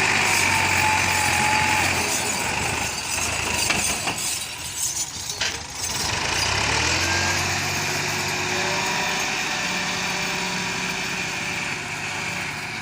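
Turbocharged Massey Ferguson 260 tractor's diesel engine running steadily. It eases off about four seconds in, then picks up again with a rising pitch.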